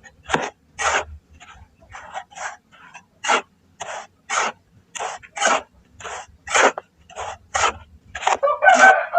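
Grainy pressed shapes crumbling: a steady run of short crunches, about two a second, with a longer, louder crunch near the end.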